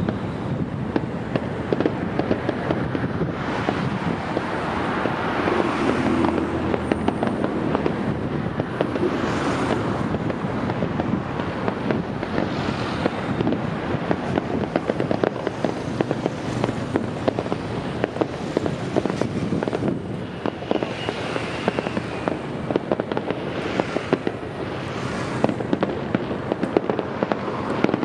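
Fireworks going off in a dense, continuous barrage of rapid bangs and crackling, swelling louder several times.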